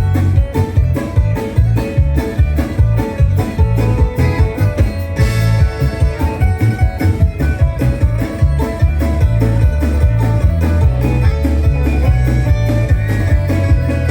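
Live bluegrass-style band playing an instrumental passage: fast, even banjo picking with guitar over a loud, steady bass line.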